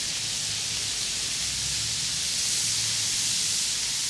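Corn kernels sizzling in butter on a hot flat-top griddle, a steady hiss as they char over medium heat.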